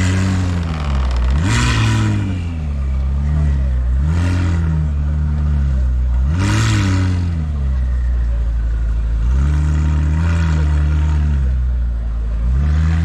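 Car engine revved in short blips about six times, each rising and falling back to a low, steady idle between them.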